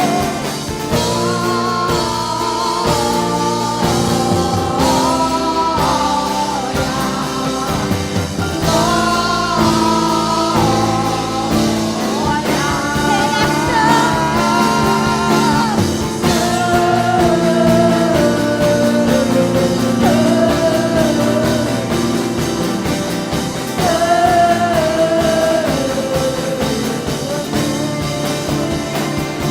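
Live worship band music: a singer's voice carries a sustained, wavering melody over steady held chords with guitar.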